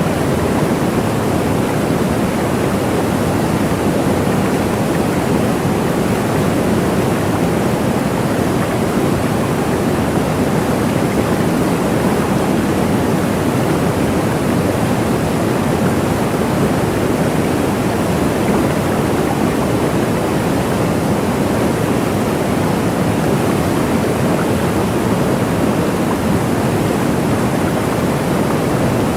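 Waterfall rushing steadily, a constant full-bodied roar of falling water with no change in level.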